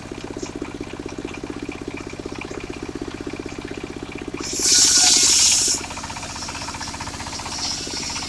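Portable engine-driven circular sawmill running steadily with a fast pulsing beat. About halfway through, the blade bites into timber for a little over a second, a loud bright hiss, then the machine drops back to running free.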